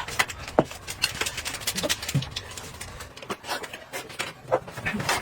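Eating and drinking noises at close range: scattered mouth clicks and smacks, with a few brief low vocal sounds.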